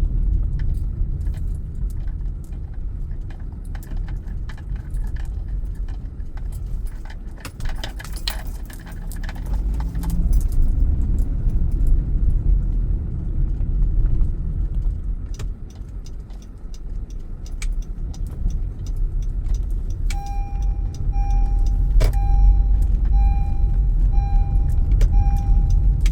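Car interior on the move: steady low road and engine rumble with light rattling and jangling, heaviest about a third of the way in. From about twenty seconds in, the car's turn-signal indicator beeps evenly, a little over once a second, ahead of a turn.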